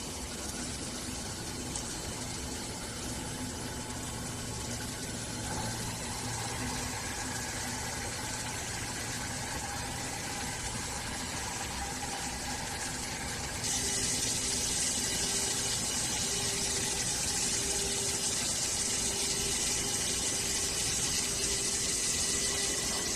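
5-axis CNC router running while machining a car model: a steady mechanical noise with a hiss that gets louder about fourteen seconds in.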